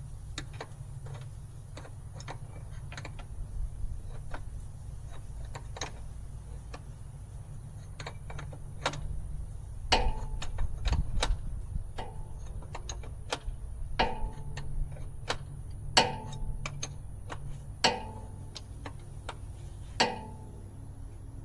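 Scattered clicks and several sharp metallic clinks with a short ring, like hand tools and metal parts being handled and set down during oil-change work. A steady low hum runs underneath.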